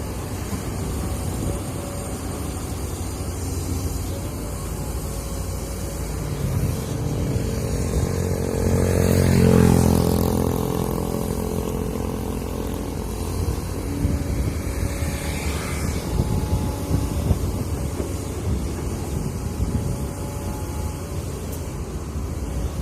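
Heavy machinery engine running with a steady rumble. It swells louder about nine seconds in, and its pitch rises and then drops sharply at the peak before settling back.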